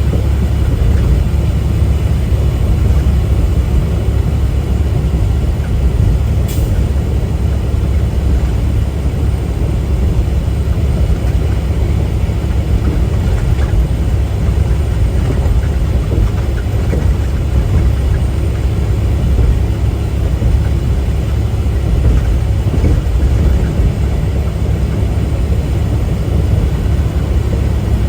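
Tractor-trailer under way: a steady low rumble of engine and road noise, with one sharp click about six seconds in.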